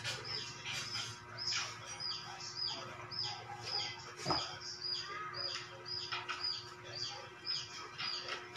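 A small bird chirping over and over in an even rhythm, about two short high chirps a second, with a single light knock about four seconds in.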